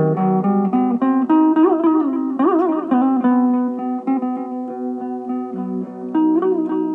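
Electric mandolin playing a slow melody of held notes, with a few notes wavering in pitch about two to three seconds in.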